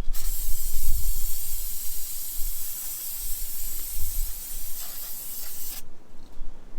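A steady spraying hiss that cuts off suddenly near the end.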